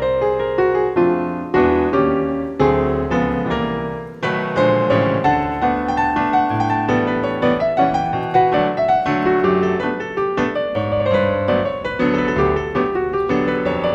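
Background music: solo piano playing a gentle melody over chords.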